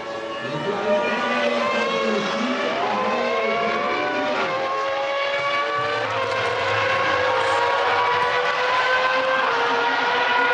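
Several 1997 Formula One cars running at high revs, their engine notes overlapping. The pitches fall as cars go by, then climb again as they accelerate.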